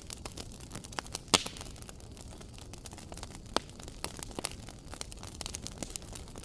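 Wood fire crackling in a fireplace: irregular sharp snaps and pops over a low steady rumble of flames, with one loud pop about a second in and another loud snap midway.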